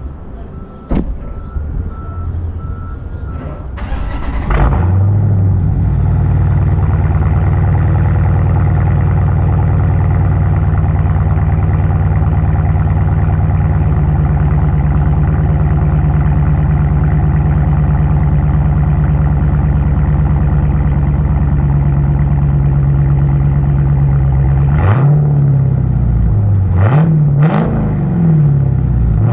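2018 Dodge Challenger Scat Pack's 6.4-litre (392) Hemi V8, its mufflers replaced with 2.75-inch straight pipes, being started about four seconds in after a beeping chime, then idling steadily. Near the end it is revved several times in quick blips.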